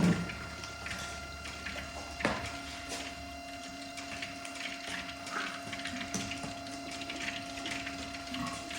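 Electric water pump running with a steady whine while coolant gurgles and clicks through the cooling system as the pump primes and purges air; a lower hum joins about two seconds in. A sharp knock at the very start is the loudest sound.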